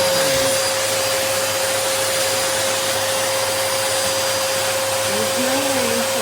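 Hoover bagless upright vacuum cleaner running steadily. A constant whine sits over the rush of air.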